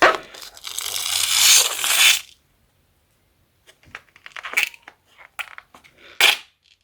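A glue-filled rubber balloon cut open and emptied into a bowl: a harsh rushing noise for about two seconds as the contents are forced out, stopping abruptly, then scattered small clicks and a couple of sharp snaps near the end.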